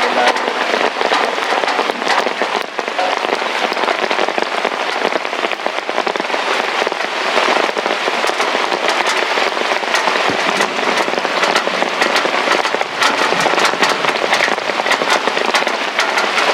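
Heavy rain falling steadily, with many sharp drop impacts crackling through it.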